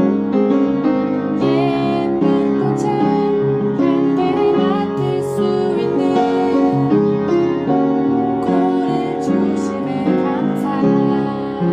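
Piano music: an original song played on piano, with sustained chords under a melody, continuous and steady in level.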